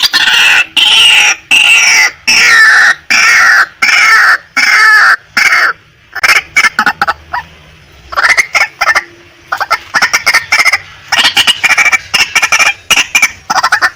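Female white-breasted waterhen calling: a loud run of harsh, repeated notes, longer ones for the first half, then quicker short notes in clusters.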